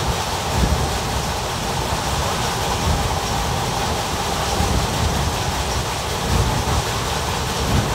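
Indian Railways ICF passenger coach running along the track: a steady rumble of wheels on rail under a hiss of rushing air, with a few brief louder bumps.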